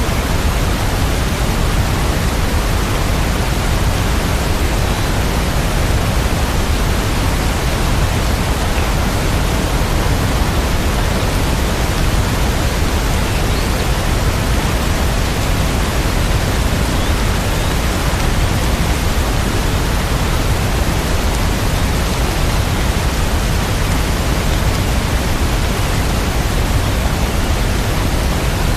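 Steady rain: an even, unbroken hiss with no single drops or music standing out.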